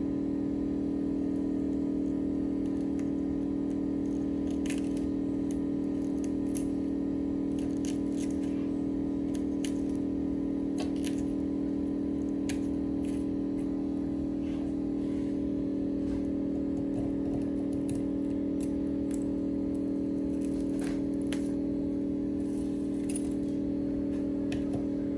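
A machine's steady electrical hum, with scattered light clicks and small metallic taps from hand tools.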